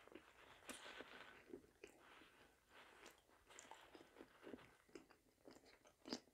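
Faint, close-miked chewing of a mouthful of food: soft wet mouth clicks and crackles, with one sharper click near the end.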